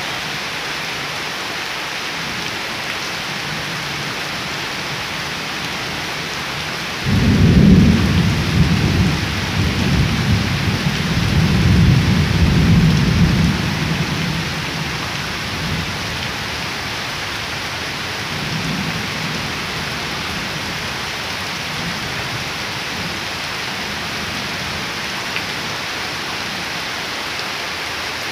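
Heavy rain falling steadily on puddled ground and leaves, a constant hiss. About a quarter of the way in, thunder breaks in suddenly and rolls for several seconds before fading, with a fainter rumble a little later.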